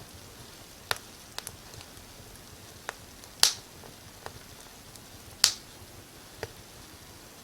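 Wood fire crackling: sharp, irregular pops, about eight of them, with the two loudest about three and a half and five and a half seconds in, over a faint steady hiss.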